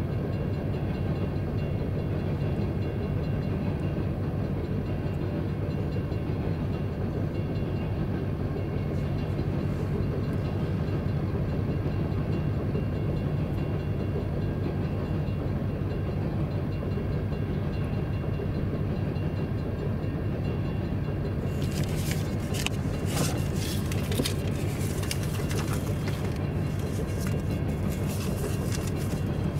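Freight train of coal hopper cars rolling past with a steady low rumble. About three-quarters of the way through, a run of sharp clicks starts over the rumble.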